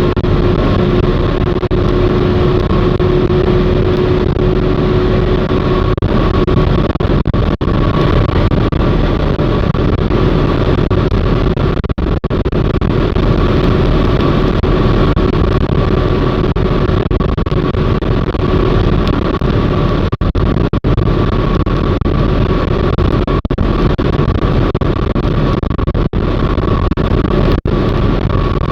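Car driving along a highway: a steady, loud mix of road and engine noise, with a few very short dips.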